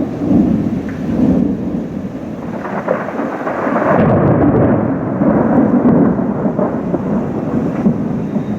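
Thunder rolling and rumbling without a break after a close lightning strike, swelling about three seconds in, with rain falling.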